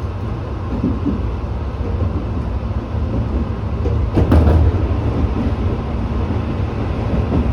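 Tobu 8000-series electric train running along the line, a steady low rumble of wheels and motors. About four seconds in there is a short, sharp clatter, like wheels passing over a rail joint or points.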